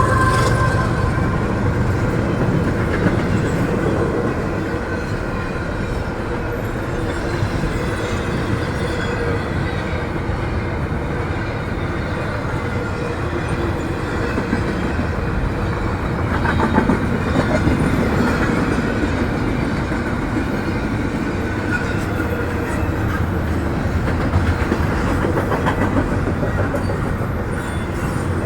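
A train's cars rolling steadily past, their wheels running loudly on the rails.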